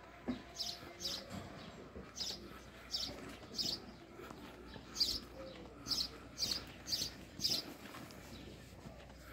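A bird chirping again and again: short, high chirps in runs of two to five, about two-thirds of a second apart, with short pauses between runs.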